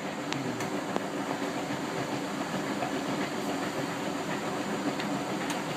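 Bendix 7128 front-loading washing machine running in its spin: a steady mechanical rumble and hiss from the drum and motor, with a few faint clicks.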